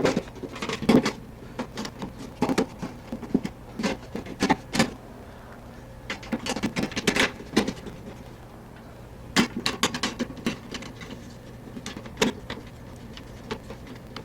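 Irregular clicks and knocks of a refrigerator's rear cover panel being fitted back on and fastened, in clusters with a short lull in the middle, over a steady low hum.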